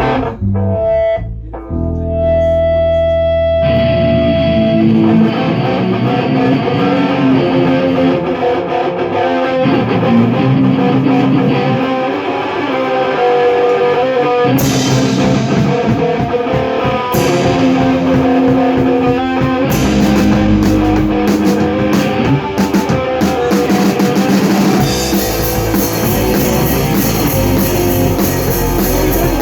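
Rock band playing a song in rehearsal: guitar with a drum kit. A single held note rings for the first few seconds before the full band comes in, and there are two sharp crashes about halfway through.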